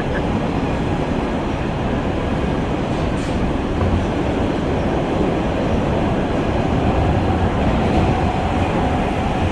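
R143 subway car running at speed through a tunnel, heard from inside the car: a steady rumble of wheels on rail. A faint steady whine comes in about two-thirds of the way through.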